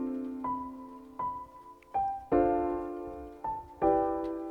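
Background piano music: slow chords struck about every second and a half, each ringing out and fading, with single higher notes between them.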